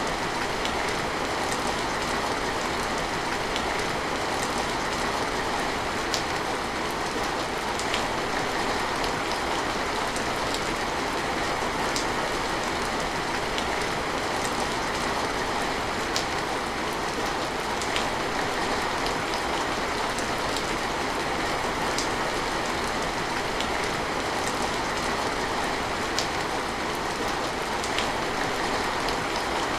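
Steady, heavy rain falling in an even hiss. Sharp little clicks, like drips, land about every two seconds.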